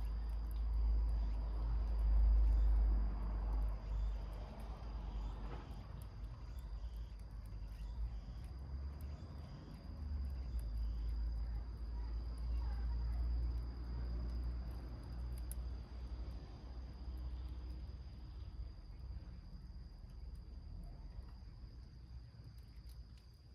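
Small wood fire in a milk-can stove, with faint scattered crackles. A steady high insect trill runs under it, and a low rumble swells and fades throughout.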